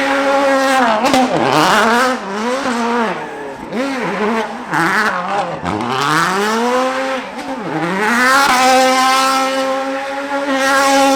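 Performance car engine revving hard, its pitch rising and falling over and over, then holding steady at high revs from about eight seconds in.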